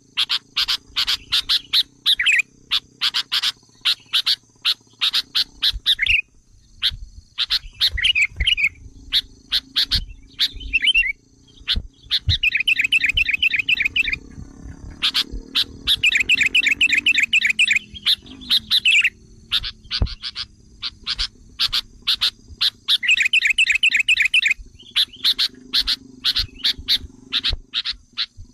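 Sooty-headed bulbul (kutilang) calling excitedly: a string of sharp, clipped chattering notes broken by three bursts of fast trilled chatter a few seconds each, the agitated calls used as a lure to provoke wild bulbuls.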